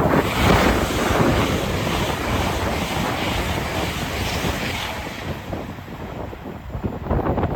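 Train passing through the station at speed: a loud rush of air and wheel noise that fades about five seconds in, with wind on the microphone.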